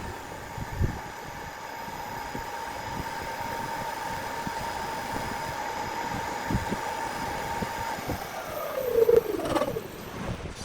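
A small electric motor running at a steady pitch, then winding down with a falling whine near the end, with scattered light knocks underneath.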